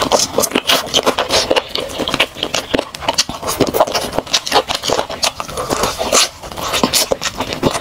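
Close-miked chewing of a shrimp held in the fingers: a dense, irregular run of wet crunches and mouth clicks.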